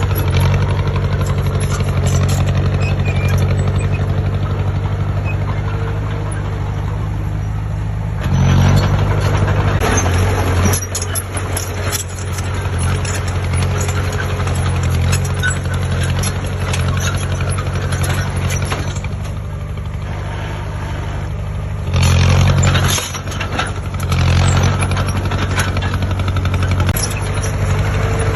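Heavy diesel engine of a construction machine running steadily, rising briefly in revs and load a few times, most clearly about eight seconds in and again about twenty-two seconds in.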